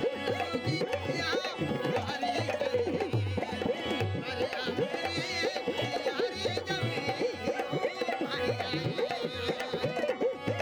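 Rajasthani folk music played live: a dholak hand drum beats a quick, even rhythm under a wavering melody over a held drone tone.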